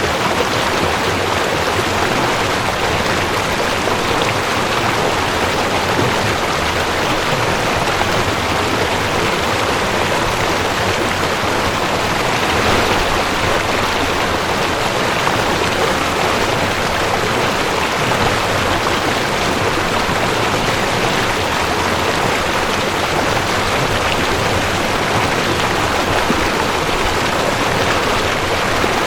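Mountain stream rushing over rocks: a steady, even water noise with no breaks.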